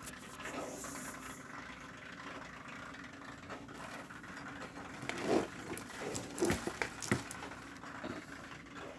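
Snowblower engine running steadily, with a few brief knocks and rustles about five to seven seconds in.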